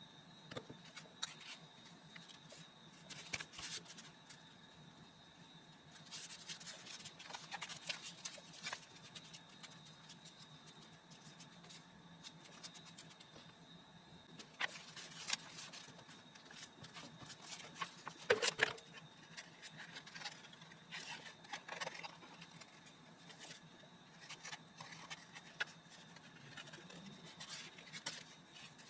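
Paper and craft materials being handled while a junk journal is assembled: scattered scrapes, rustles and light clicks, with a sharper click about two thirds of the way in, over a faint steady hum.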